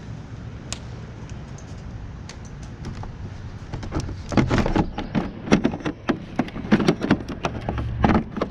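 Knocks and rattles of a motorcycle windshield being worked loose and lifted off its mounts: a few light clicks, then a quick run of louder clunks from about halfway through.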